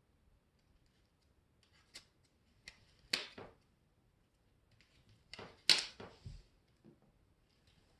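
A few sharp clicks and short knocks, like things being handled. There are two or three around two to three and a half seconds in, and the loudest group comes about five and a half to six seconds in.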